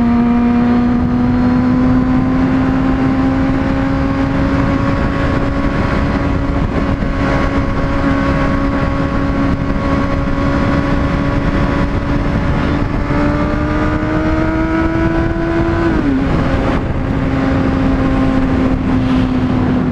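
Honda CBR600RR inline-four sport-bike engine running under way, its pitch climbing slowly, rising faster, then dropping sharply about sixteen seconds in before holding steady again. Steady wind rush lies under the engine note.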